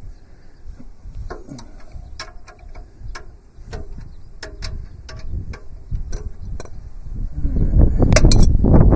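A wrench working a stuck sub-frame bolt on a Kubota B7100 tractor: scattered small metallic clicks and taps. Near the end comes a louder stretch of rumbling and clatter as the bolt breaks loose.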